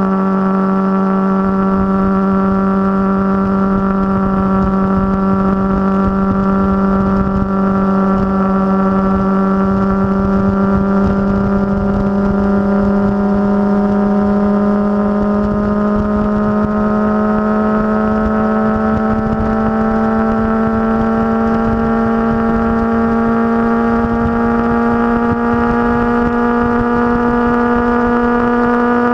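Motorcycle engine running steadily on the road, its pitch climbing slowly and evenly as it gradually gains speed, with wind rush underneath.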